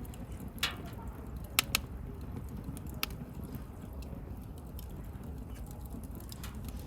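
Wood fire crackling: a handful of sharp pops over the steady low rumble of the burning fire, the two loudest close together about a second and a half in.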